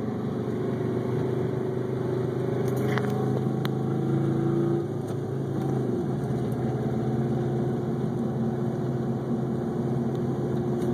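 1984 Subaru GL's EA81 flat-four engine running as the car drives along, heard from inside the cabin; the engine note drops to a lower pitch about five seconds in.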